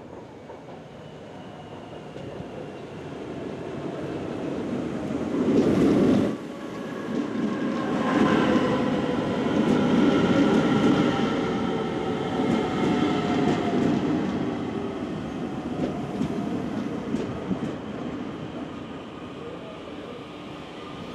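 DART electric commuter train pulling into a platform and braking. The rumble of wheels on rail builds, a loud rushing burst about six seconds in cuts off suddenly, then a whine slides steadily down in pitch as the train slows.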